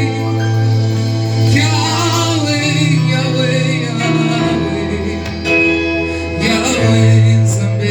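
Church gospel music: singing over guitar and a sustained bass line, with the bass changing notes twice.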